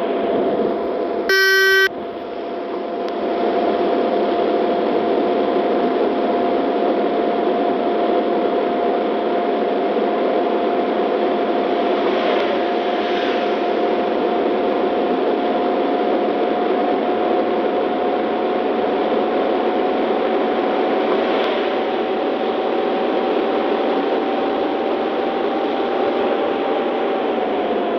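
Steady rush of heavy rain and road noise inside a moving car, with a constant whine that drops in pitch near the end as the car slows. A short, loud beep about a second in.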